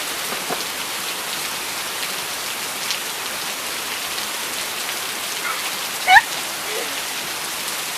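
Steady rain falling, an even hiss of drops on the ground. About six seconds in, a short high-pitched cry rises sharply in pitch and is the loudest sound.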